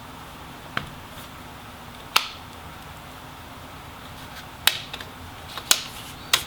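Plastic snap clips of a laptop display bezel popping loose one by one as the bezel is pried away from the back cover. The sharp clicks are irregularly spaced and come faster near the end.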